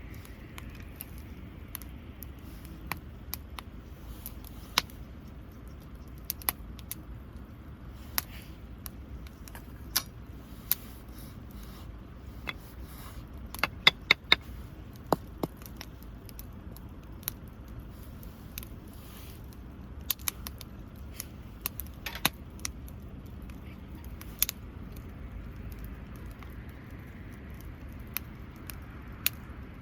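Wood campfire crackling: sharp, irregular pops and snaps, a few louder ones bunched about halfway through, over a low steady background.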